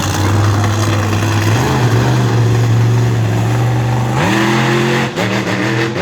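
Monster truck engine running loud and steady, then revving up about four seconds in, dropping briefly and revving again near the end.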